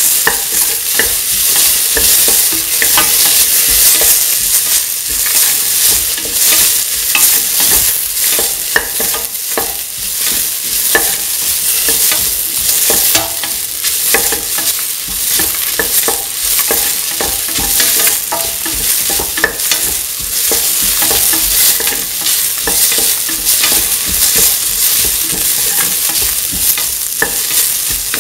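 Sliced onions, shallots, tomato and dried red chillies sizzling in hot oil in a metal pan while being stirred, with frequent short scrapes and clicks of the stirring utensil against the pan.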